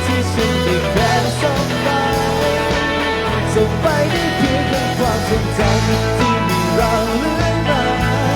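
Live band music: an instrumental passage with sustained bass notes that change every second or so under a wavering melody line.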